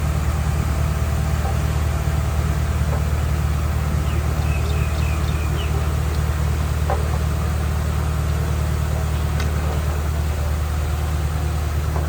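Heavy diesel earthmoving machine engine running steadily with a constant low drone, with a few faint high squeaks about four to six seconds in.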